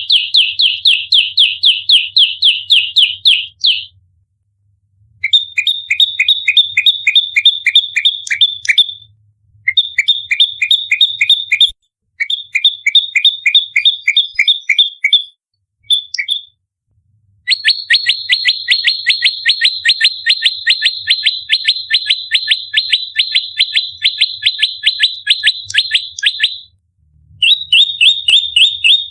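Prenjak lumut singing in its aggressive fighting song: rapid, tightly packed repeated chip notes at about five a second, high-pitched, in runs of two to nine seconds broken by short pauses.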